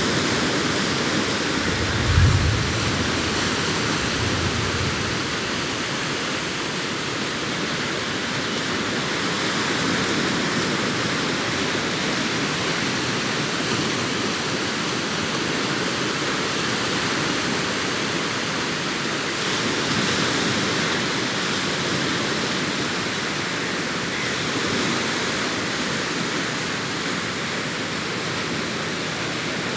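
Sea waves breaking and washing up the beach in a steady hiss that swells and eases every several seconds. A brief low thump about two seconds in.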